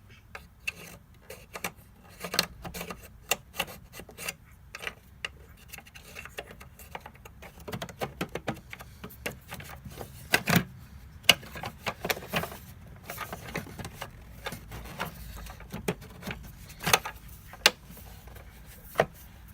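Plastic parts of a Hoover Dustmanager upright vacuum being handled and fitted together: irregular clicks, knocks and rattles, with a few sharper knocks among them.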